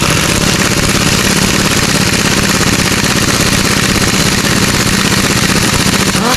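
Impact wrench hammering steadily, driving a puller's forcing screw to draw the crankshaft pulley off a 6.0L LS engine.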